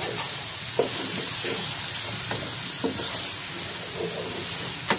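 Tomatoes, green chillies and onion masala sizzling in hot oil in a wok while a wooden spatula stirs them, with a steady hiss of frying. The spatula scrapes and knocks against the pan several times, the sharpest knock near the end.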